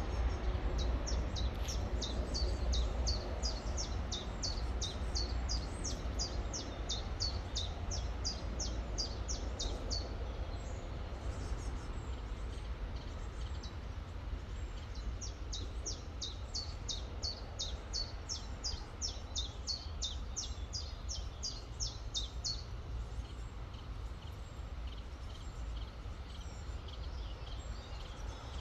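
A songbird singing two long songs, each a run of high, downward-slurred notes repeated about three times a second for seven to ten seconds, with a pause of about five seconds between them. A steady low rumble runs underneath.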